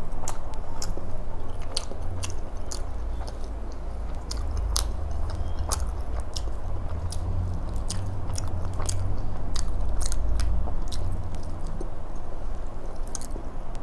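Close-miked chewing of a mouthful of laccha paratha with paneer tikka masala, with frequent sharp wet mouth clicks and smacks over a low rumble.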